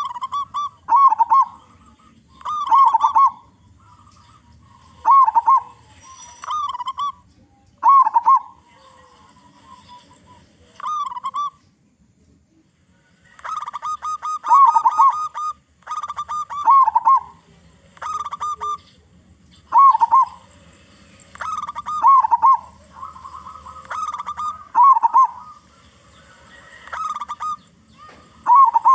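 Local zebra dove (perkutut) with a big, deep voice, cooing: short rolling coo phrases repeated every one to two seconds, with a pause of about two seconds near the middle.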